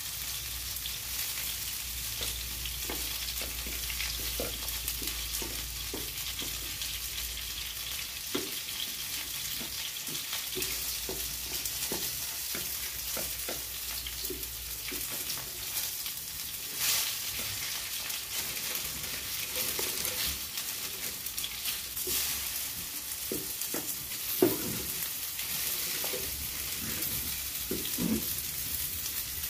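Battered baby corn sizzling in hot oil in a frying pan while being turned with chopsticks. There are scattered light clicks and a few sharper knocks, the loudest about two-thirds of the way through.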